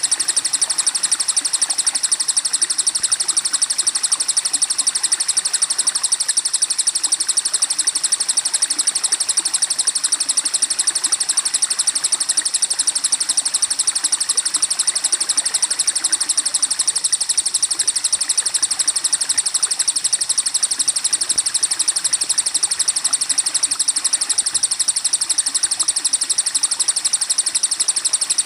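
Recorded songbird calls played as a training track: a fast, high-pitched chirping that repeats at a steady even rate throughout, over a constant noisy background.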